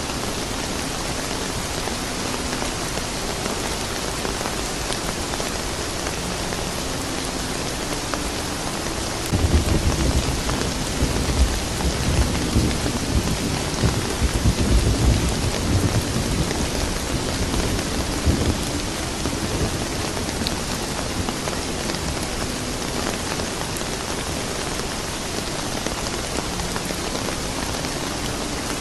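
Steady rain falling, with a long low rumble of thunder rolling through from about 9 seconds in until about 19 seconds in.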